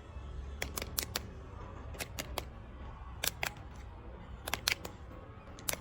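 A series of short, sharp clicks, coming in quick pairs and threes about a second apart, over a low steady hum.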